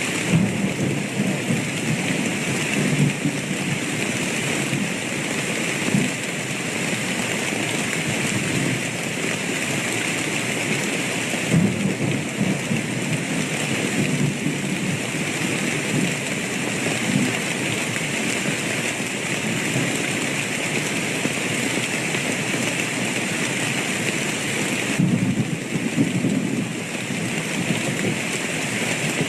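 Steady heavy rain, with low rolls of thunder swelling and fading several times, the strongest near the start, around twelve seconds in and about twenty-five seconds in.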